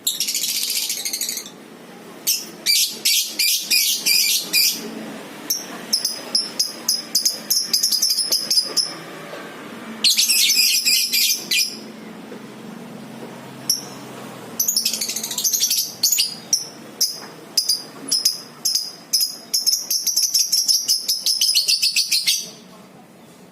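Lovebirds ngekek: long runs of rapid, shrill chattering trills, broken by short pauses. The longest run lasts about eight seconds near the end.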